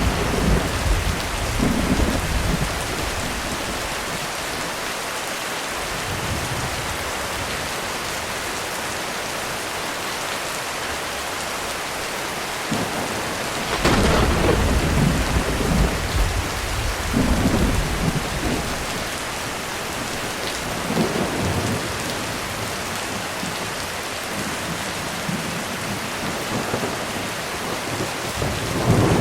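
Heavy rain falling steadily on a roof through a thunderstorm. Thunder rumbles fade over the first few seconds; about halfway a louder peal starts suddenly and rolls on for several seconds, a smaller rumble follows, and another begins right at the end.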